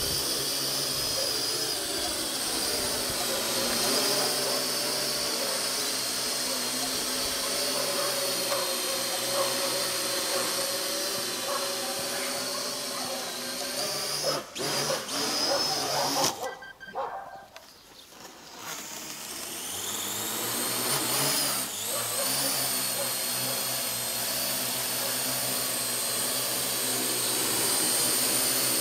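Parrot AR.Drone 2.0 quadcopter's electric motors and propellers whining steadily in flight. About halfway through the sound drops away for a couple of seconds, then the motors spin back up with a rising whine and run steadily again.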